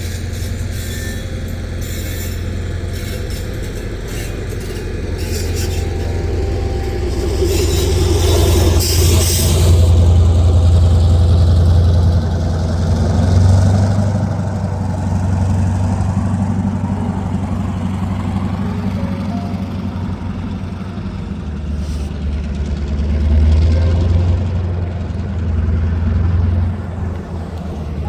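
A heavy engine's steady low drone. It swells louder for several seconds near the middle and again near the end, with a brief hiss-like rush about eight seconds in.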